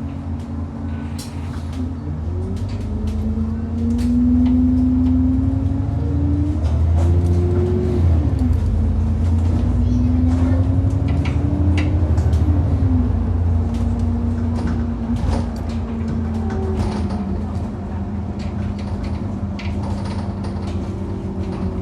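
Bus engine pulling away, its pitch climbing and dropping back at two gear changes before settling to a steady run, with scattered sharp knocks and rattles from the bus over the rough road.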